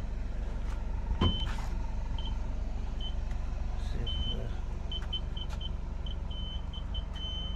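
Aftermarket reverse parking sensor buzzer beeping, the short high beeps coming slowly at first and then faster and faster until they merge into a continuous tone near the end, the sign of an obstacle getting very close behind the car. A car engine idles underneath, with a single knock about a second in.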